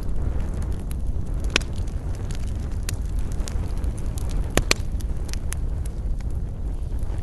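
Wood fire crackling, with scattered sharp pops and snaps; the loudest are a quick pair about four and a half seconds in. Under them runs a steady low rumble.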